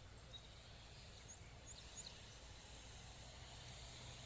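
Near silence: faint outdoor ambience with a low steady rumble and a few brief, faint high chirps about a second and a half in.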